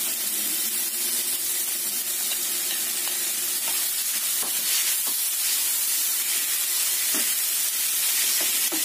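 Diced tomato and sausage sizzling steadily in hot oil with sautéed onion and garlic in a non-stick frying pan, stirred with a slotted spatula that gives a few light knocks and scrapes against the pan.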